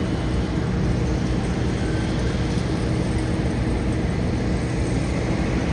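Boeing 777 jet engines running steadily at idle while the airliner holds at the runway threshold before takeoff.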